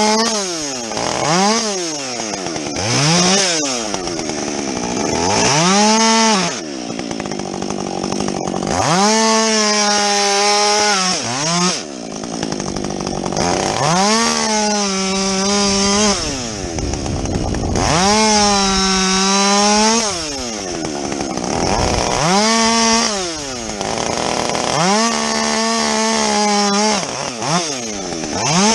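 Husqvarna 562XP two-stroke chainsaw with a modified muffler, revved up and let back down over and over while bucking a felled log. Several cuts hold it at full throttle for about two seconds, mixed with shorter blips.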